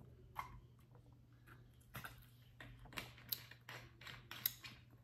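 Close-miked eating sounds: chewing and wet mouth and lip smacks on a messy sandwich, a string of soft clicks that gets busier after about two seconds, over a low steady hum.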